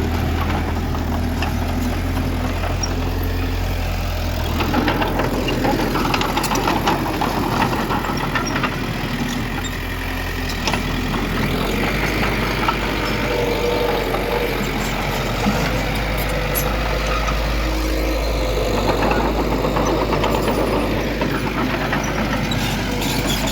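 Heavy diesel earthmoving machinery running steadily, its engine level rising and easing from time to time, with scattered short knocks.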